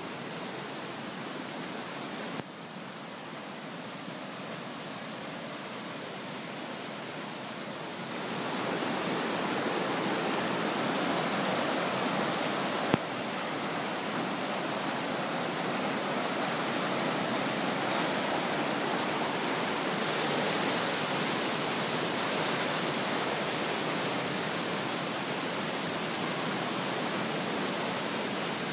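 Steady rush of a flood-swollen creek, a constant noise that grows louder about eight seconds in, with one brief click near the middle.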